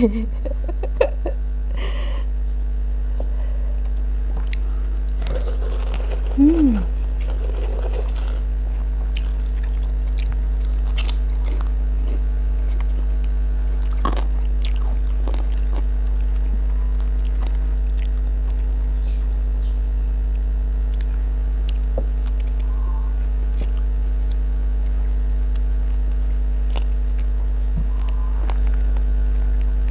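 Close-up mouth sounds of someone chewing and eating chicken and rice by hand, with scattered soft clicks and smacks, over a steady low electrical hum that is louder than the eating. There is one short falling vocal sound about six seconds in.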